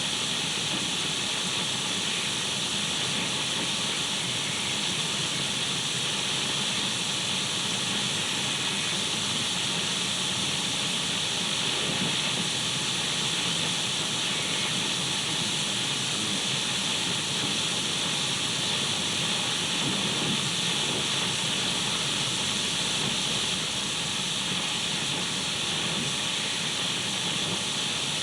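Steady radio static: an even, unchanging hiss of an untuned radio, strongest in the upper-middle range, used as white noise.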